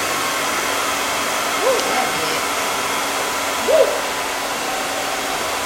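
Hair dryer blowing steadily, with two short squeaky sounds about two seconds apart.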